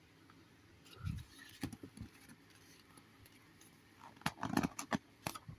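Magazine pages being handled and turned: a few short rustles and taps about a second in, then a quicker run of paper clicks and rustles near the end.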